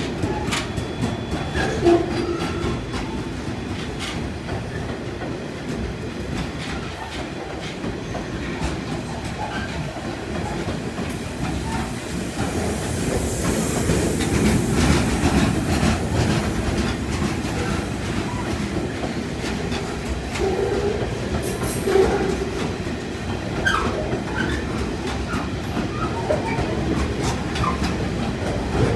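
Freight train of hopper wagons rolling past: a steady rumble of wheels with rapid clickety-clack over the rail joints, a few brief wheel squeaks in the second half, and two louder knocks, about two seconds in and again past twenty seconds.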